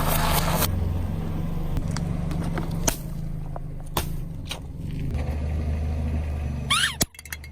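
A steady low motor-like drone with a few sharp clicks. Near the end comes a brief squeaky warbling glide, then the drone cuts off abruptly.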